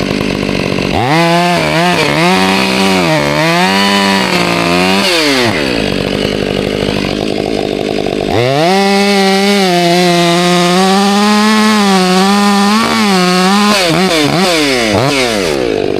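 Two-stroke chainsaw run up to full throttle twice, each time for several seconds, its high engine note dipping and recovering as the chain works through wood, with a lower rough running between the two runs.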